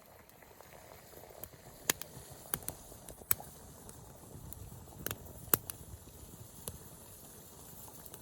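Small wood fire crackling, with irregular sharp pops over a low steady hiss.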